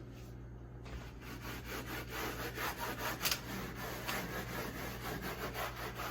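Rapid back-and-forth scrubbing of a refrigerator's side panel with a scouring pad and Comet cleanser powder, starting about a second in, working at stubborn stains.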